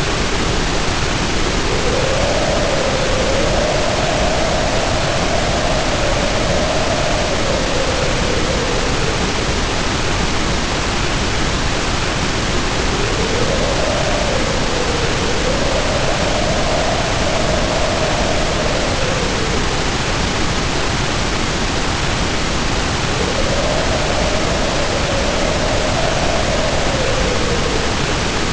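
Heavy rain pouring in a loud, steady hiss, with wind howling over it in three long gusts that rise, waver and die away over several seconds each.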